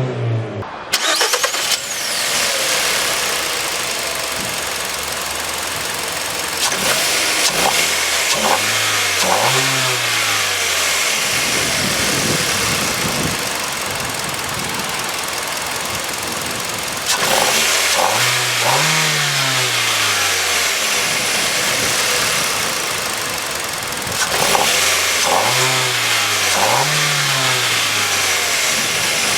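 2011 Kia Carens engine running with the throttle blipped: two quick revs about eight seconds in, a longer rev around the middle, and two more quick revs near the end, each rising and falling back to idle.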